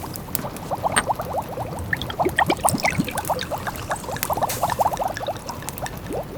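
A pot of food simmering, with quick small bubbles popping, over the crackle of a wood fire.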